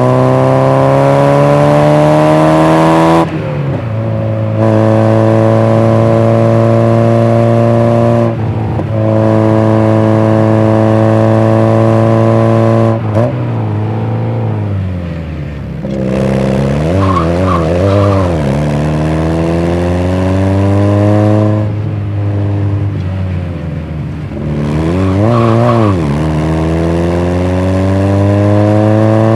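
Mazda MX-5 NA's 1.6-litre four-cylinder twin-cam engine on its stock exhaust, driven hard: revs climb, drop sharply at gear changes about three, eight and thirteen seconds in, hold steady for a while, fall away, then rise again. Around the middle and again near the end the pitch wavers quickly up and down with throttle blips before climbing once more.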